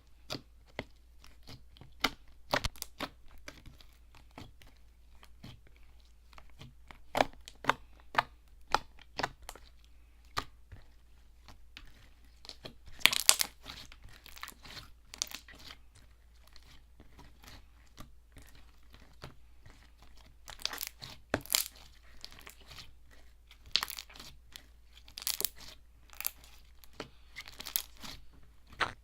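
Hands squeezing and stretching slime, giving off irregular small clicks and crackles. The clicking thickens into quick runs of crackling a few times, loudest about halfway through.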